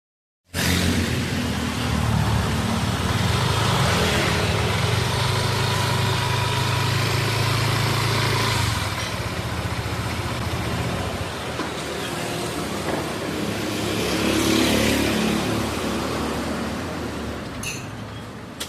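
Steady motor vehicle and road noise, starting abruptly about half a second in and cutting off just before the end.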